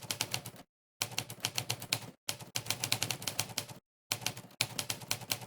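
Typewriter key-strike sound effect, a sharp clack played for every keystroke of fast typing. The clacks come in quick runs of roughly eight to ten a second, with three short complete silences where the typing pauses.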